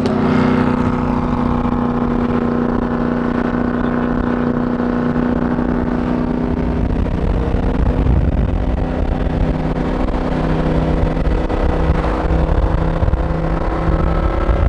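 Straight-piped Aston Martin Vantage exhaust running loud at a steady cruise, one held engine note with a deep rumble that grows heavier about halfway through.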